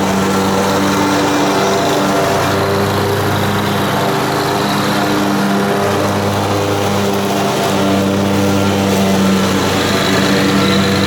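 Riding lawn mower engine running steadily under mowing load, its pitch dipping and rising slightly now and then.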